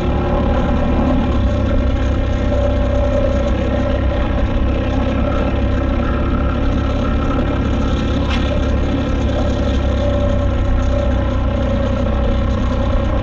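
KTM 890 Adventure R's parallel-twin engine running steadily under way, holding a fairly even engine speed, with a single short tick about eight seconds in.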